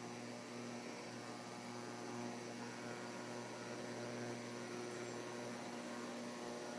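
Induction stove running on high power, a steady low hum with a faint hiss, as water in the pan starts to boil.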